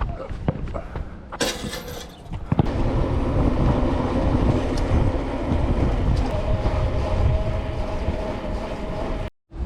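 Wind buffeting a bicycle-mounted action camera's microphone while riding, with rattling knocks in the first second, a loud gust about a second and a half in, then steady rumbling noise.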